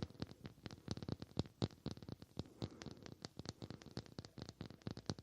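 Quick, irregular tapping for ASMR, several light taps a second without pause.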